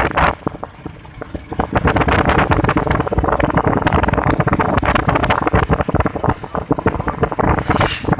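Wind buffeting the microphone on a moving motorcycle, with the motorcycle running underneath. The gusting drops quieter for about a second and a half near the start, then comes back at full strength.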